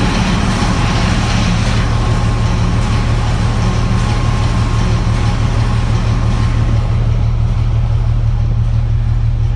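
Steady loud drone of a ship's running main engine and engine-room machinery, heard from the casing directly above it: a strong constant low hum with a thin steady whine over it. The higher hiss thins out about seven seconds in.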